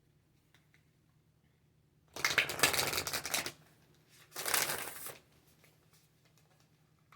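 A deck of tarot cards being shuffled: two quick fluttering flurries of cards, the first about a second and a half long starting about two seconds in, the second shorter and coming about a second later.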